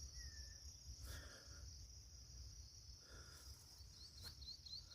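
Faint, steady, high-pitched insect chorus, with a few short high chirps near the end.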